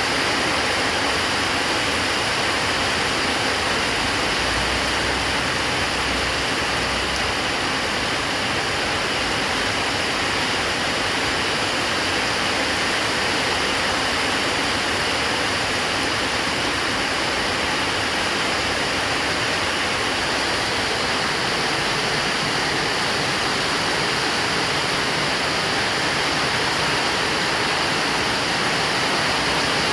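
Heavy rain pouring down in a dense, steady hiss that holds even throughout, with no thunder.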